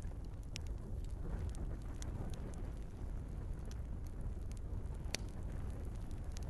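Wood fire burning in a fireplace: a steady low rumble of flames with scattered sharp crackles and pops from the logs, one louder crack about five seconds in.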